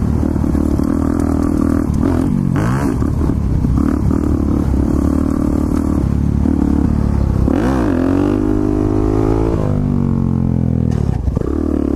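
Motorcycle engine running under throttle as the bike is ridden, its revs dipping and climbing several times with the loudest rise about eight to nine and a half seconds in.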